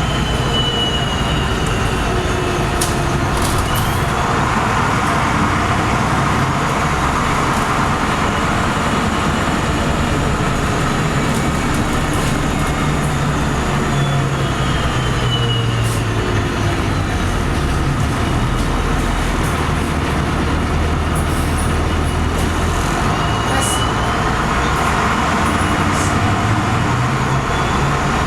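LiAZ-5256.46 city bus heard from inside while under way: the engine runs steadily, its low note rising and dropping a couple of times as the bus speeds up and slows, with a faint high whine gliding along with it and a few rattles and clicks.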